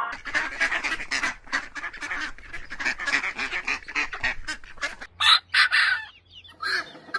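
A flock of waterfowl calling: many short, rapid, overlapping honking calls, with two louder calls about five seconds in and a short lull before the calling picks up again near the end.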